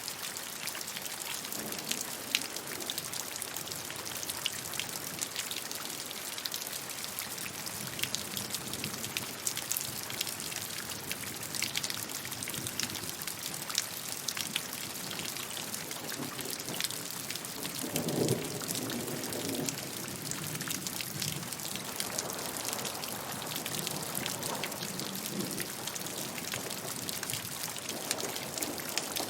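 Steady rain falling and pattering on a surface, with many individual drops ticking sharply. About two-thirds of the way through comes a brief, deeper, louder swell.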